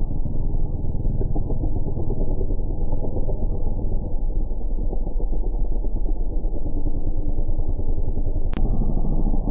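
Motocross dirt-bike engines heard as a dense, muffled low rumble, with nothing above a low pitch ceiling. A single sharp click comes about eight and a half seconds in.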